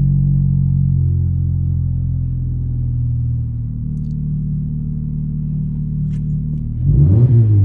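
2012 Honda Civic 1.8L four-cylinder idling through a resonator-delete exhaust with an aftermarket muffler, a steady low drone. Near the end there is one quick rev, rising and falling.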